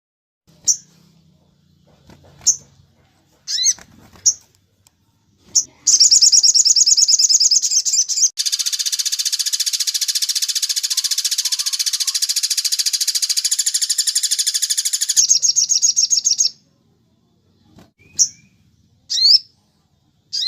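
Sogon songbird singing: a few sharp, high single chirps, then a long, very fast high-pitched trill lasting about ten seconds, then scattered chirps again near the end.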